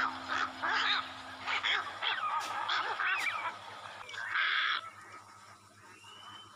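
Birds calling: a quick run of short honking calls, then one harsh, rasping squawk a little after four seconds in.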